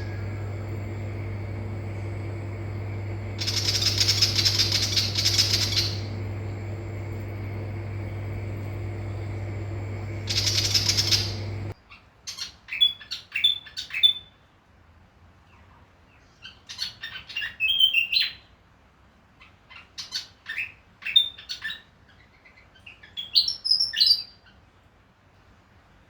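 Willie wagtail calling. First come two harsh, rasping chatter bursts over a steady low hum. Then, after a sudden change of recording about twelve seconds in, come four groups of quick, clear, chirpy song phrases that slide up and down in pitch.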